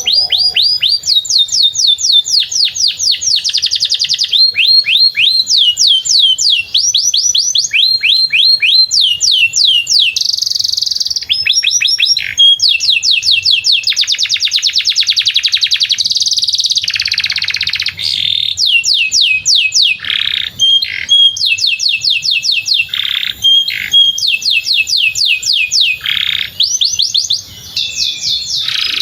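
Domestic canary singing a long, unbroken song. It moves through runs of rapid repeated falling notes, switching to a new trill every second or two, with some very fast rolling trills along the way.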